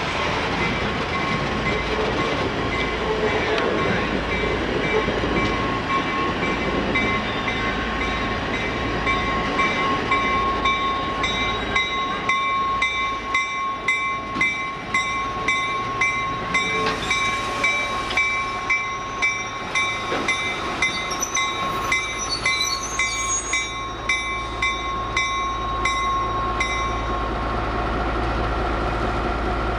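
Train running, with a bell ringing steadily at about one and a half to two strokes a second from several seconds in until near the end. A thin steady high tone sounds under it throughout.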